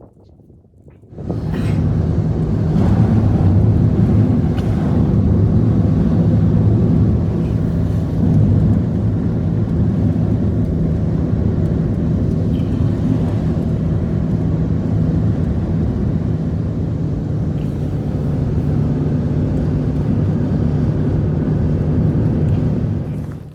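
A motor engine running steadily at an even pitch, loud throughout. It starts about a second in and cuts off abruptly at the end.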